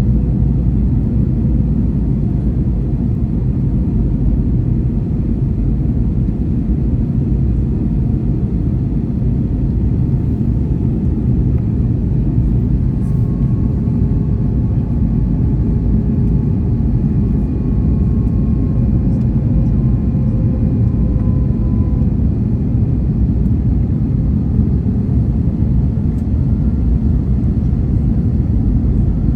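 Airliner cabin noise during the approach: a steady, loud low rumble of engines and rushing air, with faint steady whining tones drifting in and out.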